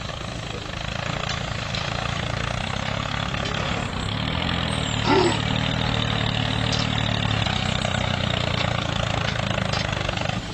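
A DIY mini tractor's small motor running steadily with a low hum. A short rising squeak comes about five seconds in.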